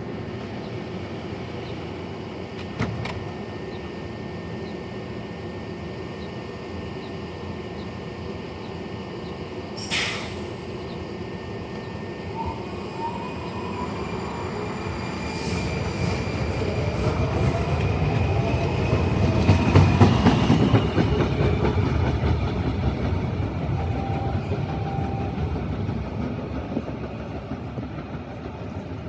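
A WMATA Metrorail Red Line train runs past close by. Its rumble builds to a peak about two-thirds of the way in and then fades, with thin, high tones from the wheels and motors that rise and fall in pitch. A sharp click comes about three seconds in and a short hiss about ten seconds in.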